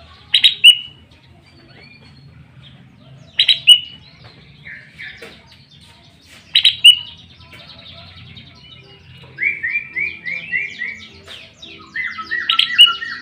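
Sooty-headed bulbul (kutilang) calling loudly: three short, sharp phrases about three seconds apart, then a quick run of about six repeated notes, and a busier phrase of repeated notes near the end.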